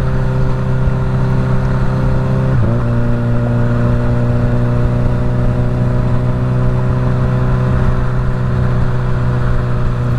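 Suzuki GSX-S1000 inline-four with a full Dominator exhaust, running at a steady cruise on the highway, with wind rumble on the helmet microphone. The engine note steps up slightly about two and a half seconds in, then holds steady.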